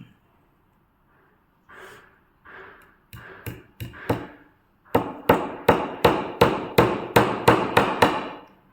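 Hammer blows in a woodworking workshop: a few scattered knocks, then a quick, even run of about a dozen strikes, roughly three a second, that stops shortly before the end.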